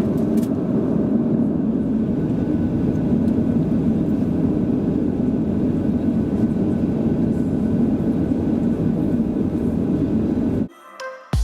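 Steady engine and airflow rumble of a KLM Boeing 737-700, heard from inside the cabin with its CFM56 engines running during taxi. It cuts off sharply near the end.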